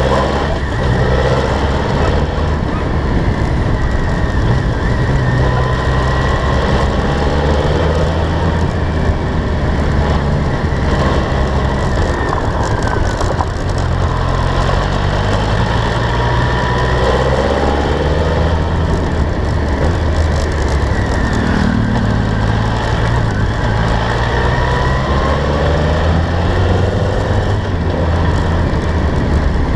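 BMW K1200R's inline four-cylinder engine under way. Its pitch rises and falls several times as it accelerates and backs off.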